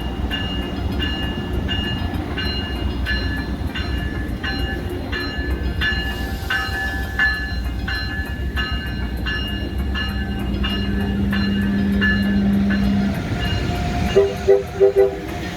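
Passenger train door-closing warning beeps, a two-note electronic tone repeating about twice a second, over the steady low rumble of the standing train. Near the end come three short, loud pitched blasts.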